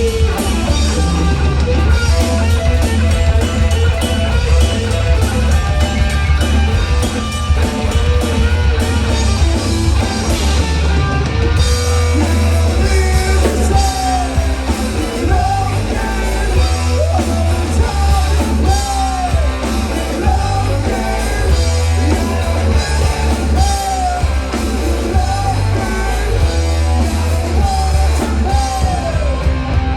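Live rock band playing loud and steady: electric guitar and drum kit, with singing.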